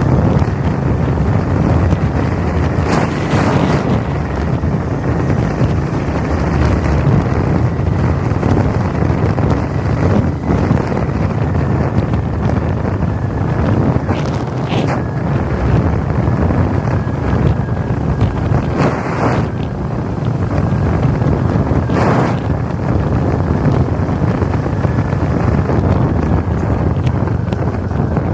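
Royal Enfield motorcycle engine running steadily on the move, with heavy wind noise on the microphone.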